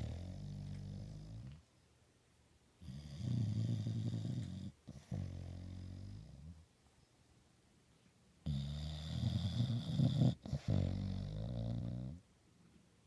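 A bully dog snoring loudly in deep sleep: long, rasping snores that come in pairs, a louder one with a high rattle followed by a softer one, with quiet pauses between breaths.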